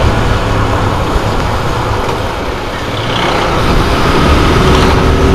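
TVS Apache RTR 160 single-cylinder motorcycle engine running under way, mixed with wind and road noise; the sound eases off briefly about two seconds in, then builds back up.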